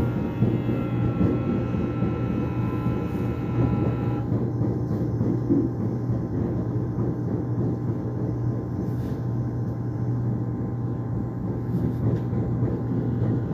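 Korean subway train running between stations, heard from inside the car: a steady low rumble and hum of wheels on track. A layered electric whine from the traction motors cuts off about four seconds in, leaving only the rumble.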